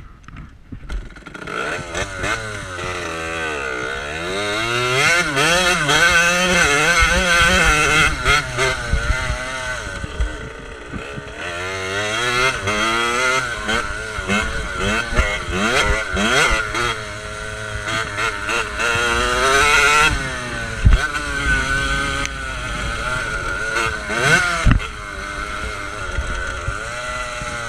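Motocross bike engine revving up and down repeatedly as it is ridden, its pitch rising and falling through the gears, with occasional sharp knocks.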